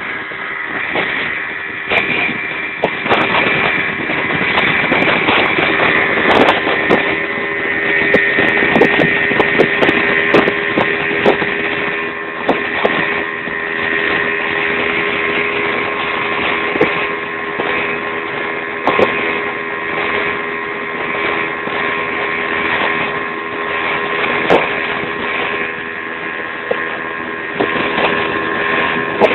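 Speedboat engine running steadily at cruising speed, a constant drone with a higher whine. Irregular knocks and thuds come through it, thickest in the first half.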